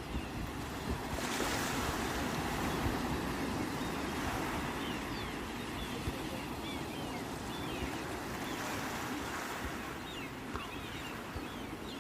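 Sea waves washing onto the shore, with one wave breaking about a second in and another near nine seconds, and wind rumbling on the microphone.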